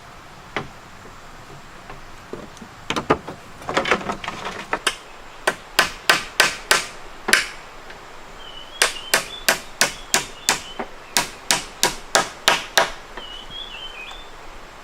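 Hammering: runs of sharp blows at about three a second, the longest run of about a dozen strikes coming in the second half.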